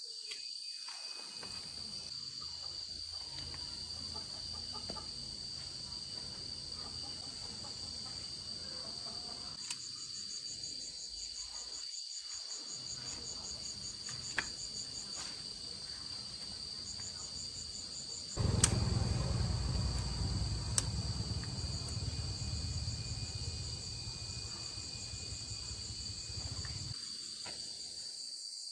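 Crickets and other insects chirping in fast high pulse trains over a steady high drone. About two-thirds of the way in, a louder low rumble starts suddenly with a click and runs until shortly before the end.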